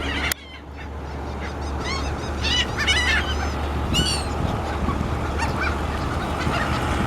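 A flock of seagulls calling, a rapid flurry of short, arched cries about two to four seconds in and a few scattered calls after, over a steady background rush. A sharp click sounds just after the start.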